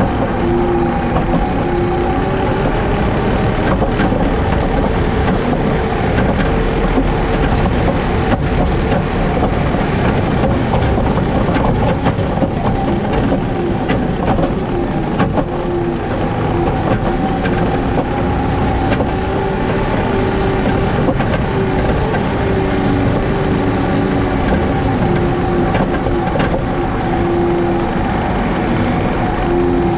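JCB Teleskid skid steer's diesel engine running steadily under load, driving a 7-foot Jenkins hydraulic bush hog while mowing. It makes a loud, continuous drone with a whine that shifts in pitch now and then.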